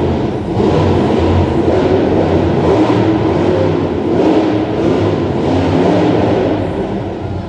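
Monster truck engine revving hard and unevenly, its pitch rising and falling with the throttle, as in a donut run.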